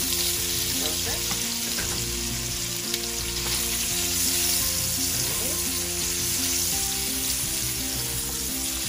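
Sliced hot dogs sizzling in hot oil in a stainless steel frying pan, a steady loud hiss, while metal tongs stir and turn them.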